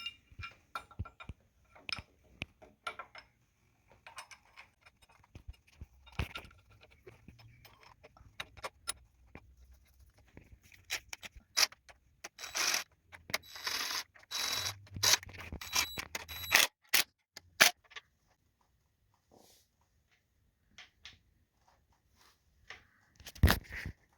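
Scattered clicks, clinks and scrapes of hard objects being handled, busiest in a long scraping, clattering stretch in the middle, then a lull and a sharp knock near the end.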